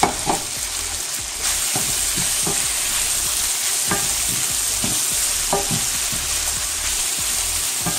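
Chicken pieces sizzling in hot butter and oil in a non-stick pan while a wooden spoon stirs them, scraping and knocking against the pan every second or so. The sizzle gets louder about a second and a half in.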